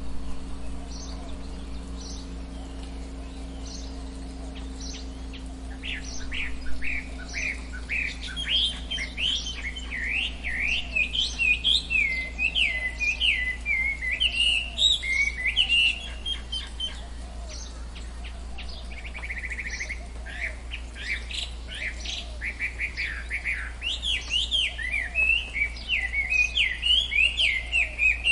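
Tropical forest birds calling: many quick high chirps that start sparse and thicken into dense, overlapping chattering, easing for a few seconds in the middle and then building again near the end.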